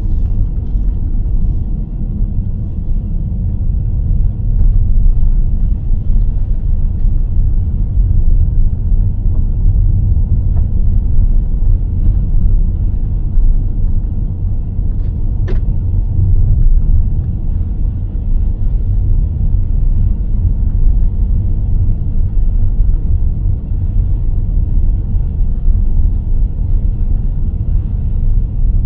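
Car driving along a road: a steady low rumble of the moving vehicle, with one sharp click about halfway through.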